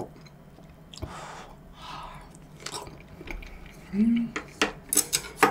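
A person chewing food close to the microphone, with a short hummed 'mm' about four seconds in and several sharp clicks near the end.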